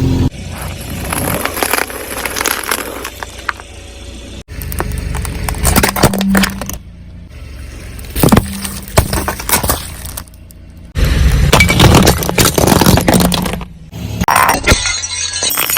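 Objects cracking and crunching as they are crushed under a car's tyres, with glassy breaking and clinking, over the low rumble of the rolling car. The sound comes as a string of short separate clips, jumping abruptly several times.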